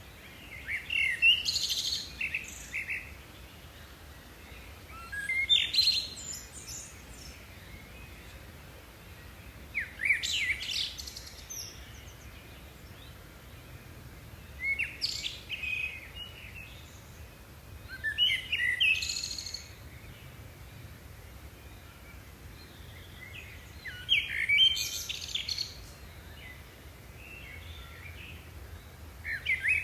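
A bird singing a short, bright phrase of quick chirps, repeated about every four to five seconds, six times in all.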